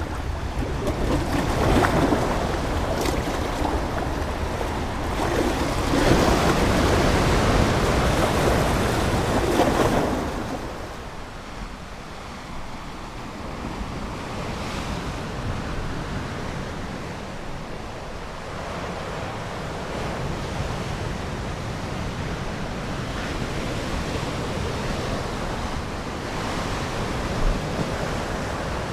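Ocean waves surging and breaking on the shore: one swell builds about two seconds in and a bigger one runs from about six to ten seconds, then a quieter, steady wash of surf.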